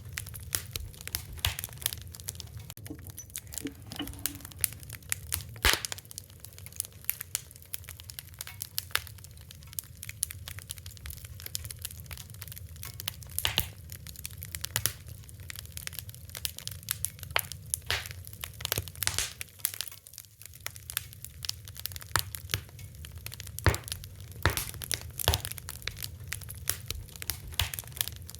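Wood fire crackling: irregular sharp pops and snaps, a few louder ones scattered through, over a steady low rumble of burning.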